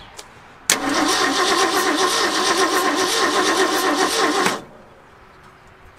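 Ford 460 V8 cranked over on its starter for about four seconds, with a spark plug pulled and held to ground to check for spark. The cranking begins about a second in with an even pulsing and stops abruptly without the engine catching.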